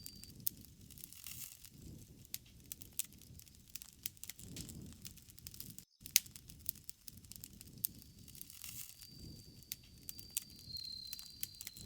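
Campfire crackling: many sharp pops and snaps over a low rumble of flames that swells now and then, with a cricket trilling steadily in the latter part. The sound cuts out briefly about six seconds in.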